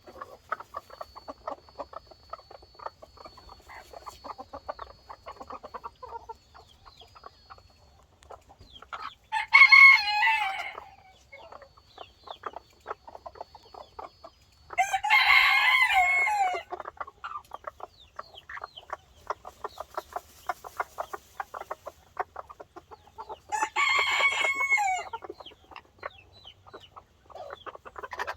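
Chickens: a rooster crowing three times, each crow about two seconds long, with hens clucking steadily in between.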